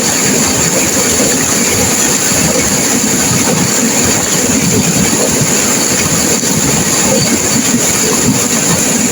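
River water rushing and crashing through turbulent rapids, a loud, steady rush that never lets up.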